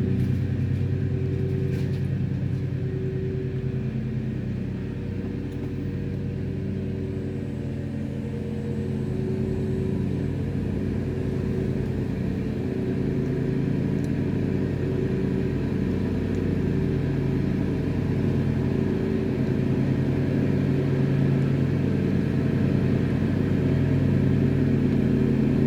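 Lawnmower engine running steadily outside, dipping slightly about five seconds in and then growing louder toward the end.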